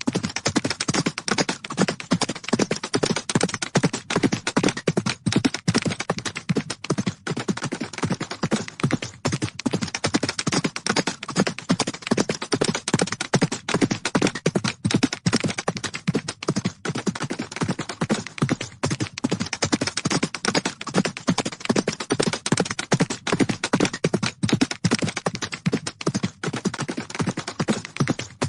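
Horses galloping: a fast, dense run of hoofbeats that keeps up without a break.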